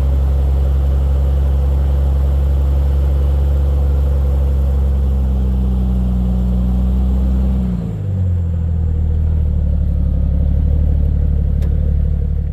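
Jeep Cherokee XJ's engine running steadily under load while rock crawling. About eight seconds in its pitch drops and the sound briefly dips, as the throttle eases, then it runs steady again at the lower pitch.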